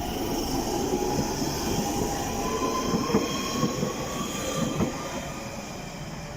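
London Underground Central line train pulling away from the platform: its traction motors whine and rise slowly in pitch over the rumble of the wheels. There are a few sharp knocks as the wheels cross rail joints, and the sound fades near the end as the train moves off.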